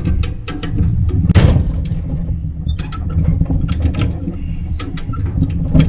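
Come-along ratchet clicking in a series of short, sharp clicks as the chain to the PTO shaft's U-joint is drawn tight, with one louder clank about a second and a half in. A steady low rumble runs underneath.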